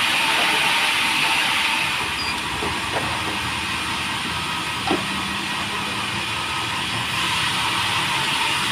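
Sawmill machinery running with a steady hissing noise and a faint steady whine, with two light knocks about three and five seconds in.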